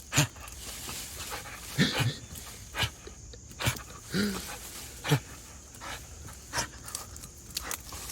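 Dog gnawing and tearing at a small tree with her teeth: sharp cracks and snaps of wood roughly every second, with panting and a short whine between bites.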